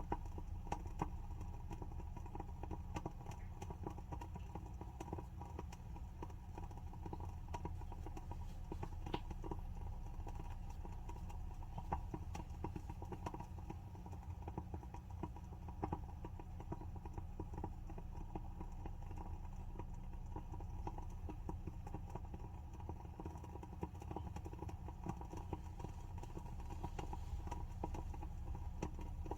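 WoodWick candle's wooden wick crackling as it burns: a steady stream of small, irregular pops and ticks over a low, steady hum.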